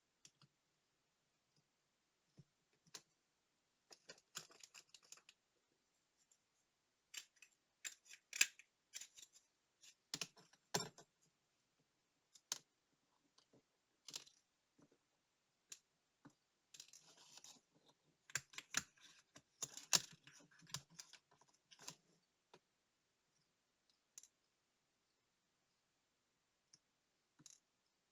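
Small hand tools clicking and tapping against tiny watch parts and the work surface, in scattered bursts, with two short stretches of rapid scraping and rattling clicks.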